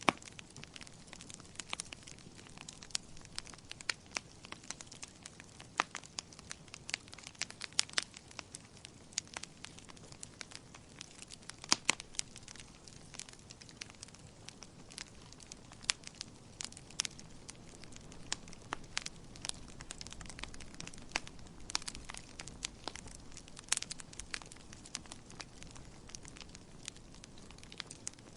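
Wood fire burning in a fireplace, crackling and popping with irregular sharp snaps over a soft steady hiss and low rumble of the flames.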